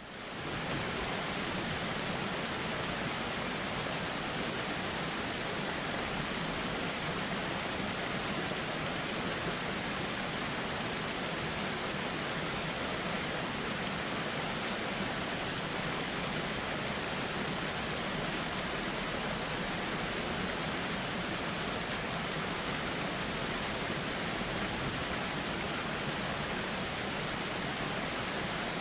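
Steady, even rushing of flowing river water, unbroken and unchanging, swelling back in from a brief fade at the very start.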